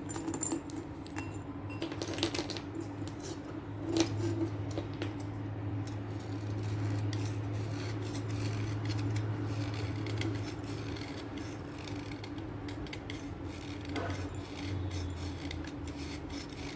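Cutter knife blade scraping and slicing through sticks of blackboard chalk: a run of small crackly scrapes with a sharper click about four seconds in, over a low steady hum.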